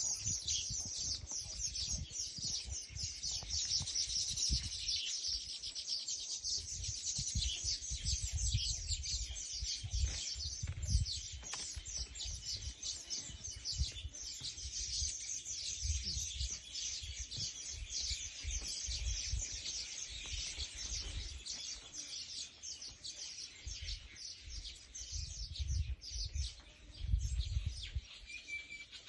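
Dense chorus of many small birds chirping rapidly and continuously, with an intermittent low rumble underneath.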